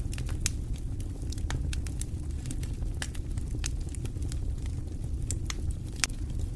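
Wood fire burning in a fireplace: a steady low rumble of flame with frequent sharp crackles and pops at irregular moments.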